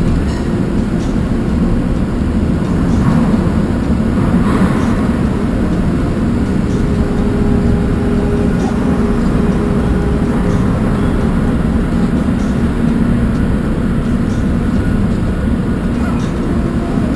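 Steady low rumble of a running engine, unbroken, with a faint steady hum above it.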